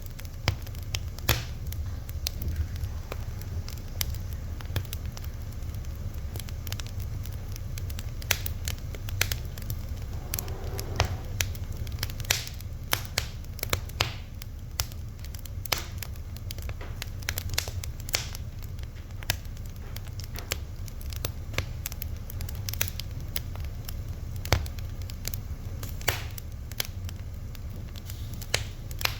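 Fire crackling: irregular sharp pops and crackles over a steady low rumble.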